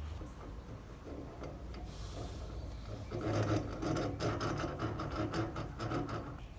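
Parts scraping and rubbing on a wheel balancer's mandrel shaft as a cone, pads and a motorcycle wheel are fitted onto it. From about three seconds in comes a run of short scraping strokes with small clicks, about two a second.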